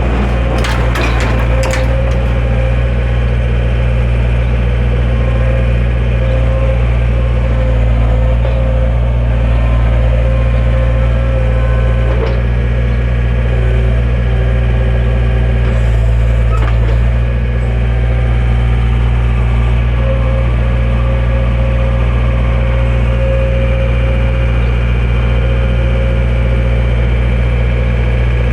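An engine running steadily at an even speed, with a few knocks and clacks about a second in.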